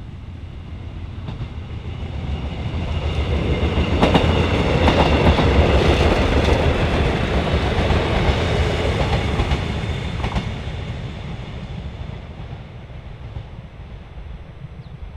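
Korail CDC diesel multiple-unit commuter train passing close by: the rumble and wheel clatter build up, are loudest for several seconds in the middle, then fade as the train pulls away.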